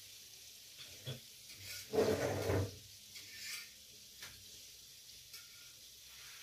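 A freshly deep-fried, still oil-hot piece of coated chicken set down on a paper-towel-lined plate, with a short burst of sizzling about two seconds in and a few light clicks, over a faint steady hiss.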